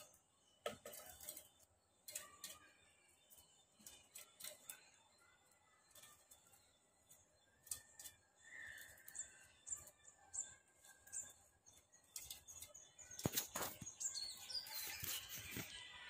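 Small bird flapping its wings and pecking at a car's side window glass from the wing mirror: scattered light taps and wing flutters, with a few short chirps, getting louder and busier near the end.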